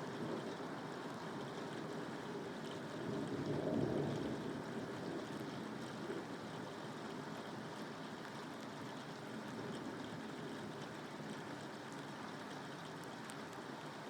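Steady rainfall, an even hiss of falling rain that swells briefly about four seconds in.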